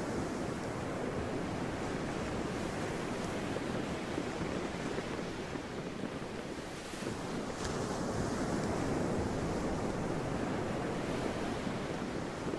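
Sea waves washing steadily, with wind. The wash eases a little just past the middle and then builds again.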